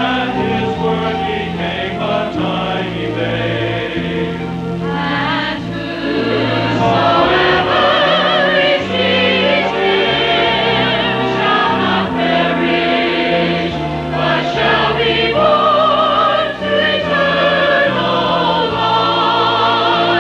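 Church choir singing a Christmas cantata with instrumental accompaniment, in held notes with vibrato over a steady bass line; it grows louder about six seconds in.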